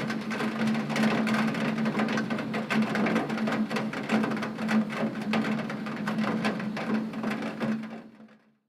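Heavy rain pattering on a window pane, a dense rapid tapping of drops over a steady low hum. It fades out about eight seconds in to a moment of silence.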